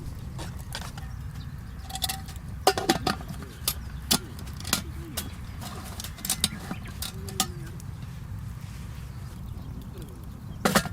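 Camp cooking clatter: a run of sharp clicks and knocks, clustered from about two to seven and a half seconds in and once more near the end, over a steady low rumble.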